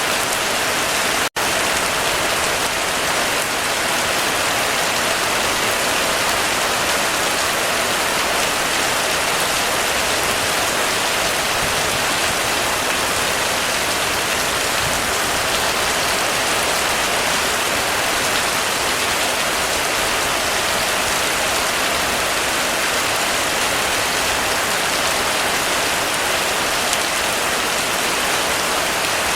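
Heavy, steady rain drumming on a roof. A split-second dropout comes about a second in.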